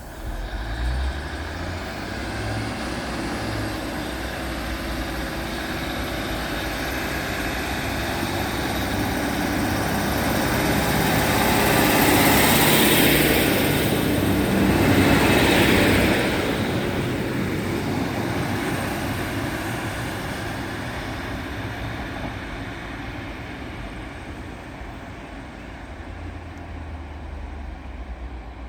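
Class 156 diesel multiple unit's underfloor diesel engines running as it passes. The sound builds to a loud peak about halfway, swells twice close together, then fades away.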